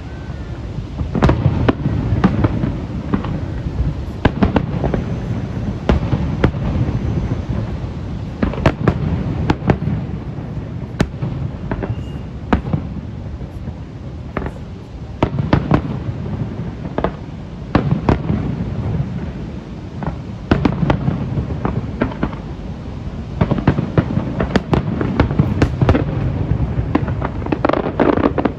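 Aerial fireworks going off in rapid succession: many sharp bangs and crackles, one after another, over a continuous low rumble of echoing booms.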